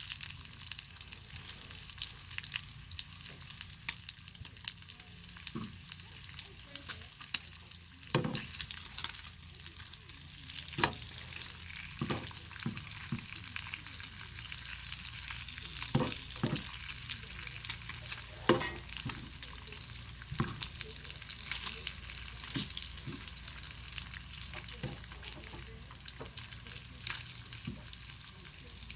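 Bacon sizzling over a wood fire: a steady high hiss of frying fat with irregular sharp pops and crackles scattered throughout.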